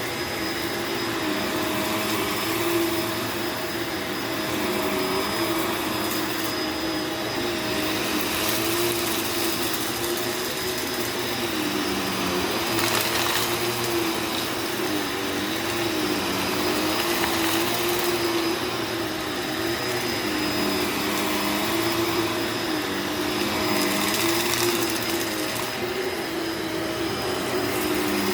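Upright vacuum cleaner running on carpet, a steady motor hum and rush of air whose pitch wavers gently up and down.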